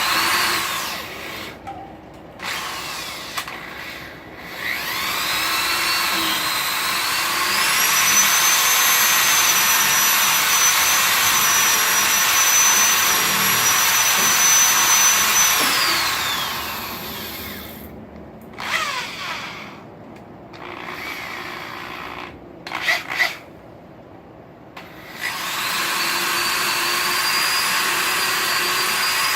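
Electric drill boring a pilot hole into a wooden post for a forged drive hook: the motor spins up to a steady high whine, runs for several seconds, winds down, gives a few short trigger bursts, then runs steadily again near the end.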